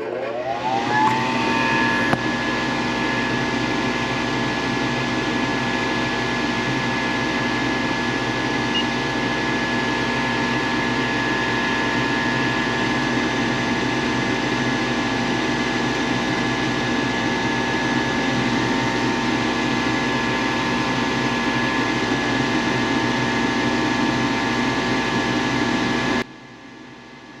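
Goodman gas furnace's draft inducer motor starting up at the beginning of a heating cycle: a whine that climbs in pitch over about a second, then a steady motor whine over a rushing hiss. It cuts off abruptly near the end.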